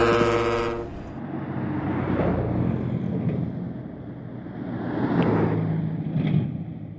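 Road vehicles running past on a steep climb, their engine and tyre noise swelling twice, about two seconds in and again about five seconds in, with a low engine drone at the second pass. It opens with a loud held chord of steady tones that cuts off within the first second.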